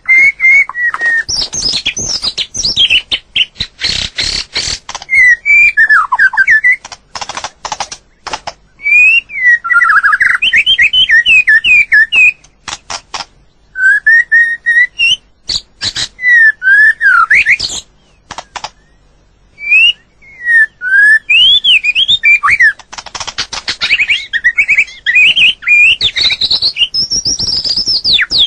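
White-rumped shama singing loudly: varied whistled phrases that rise and fall in pitch, mixed with harsh rasping notes and separated by short pauses.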